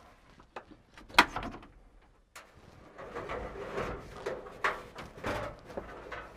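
Clunks, knocks and rustling of aircraft parts being handled and pulled out, with one sharp knock about a second in and busier clatter in the second half.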